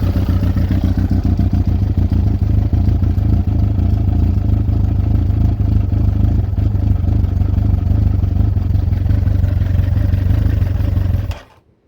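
Yamaha YZF1000R Thunderace's inline four-cylinder engine running steadily at idle while warming up after its carburettor rebuild, then cutting off abruptly near the end.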